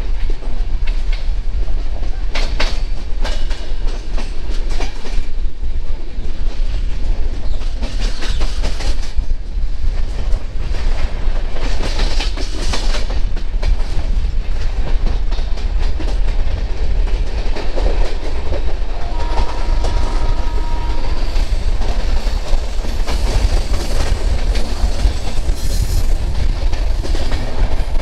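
Hemkunt Express passenger coaches running at speed, heard from the open doorway: the wheels clatter over rail joints above a steady rumble.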